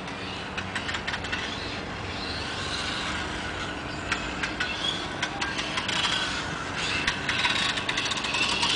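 High whine of a 1/8-scale OTO RC motorcycle's brushless electric motor, swelling and fading and shifting in pitch as the bike speeds up and slows through the track, with scattered sharp clicks. It is loudest near the end.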